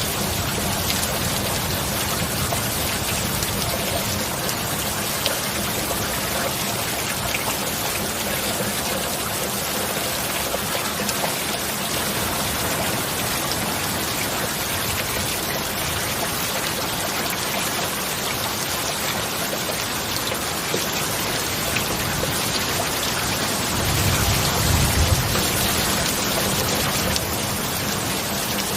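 Heavy rain falling steadily, with a low rumble of thunder swelling for a few seconds near the end.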